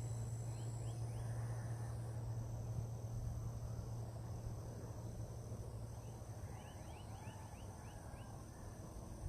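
Outdoor wetland ambience: insects trilling steadily in a high pulsing pattern over a low hum, while a bird gives a quick run of short descending notes, twice, the second run longer, past the middle.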